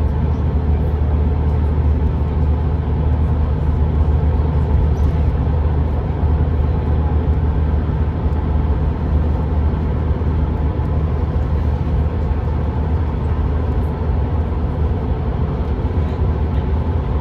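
Steady low engine and road rumble heard inside a moving coach.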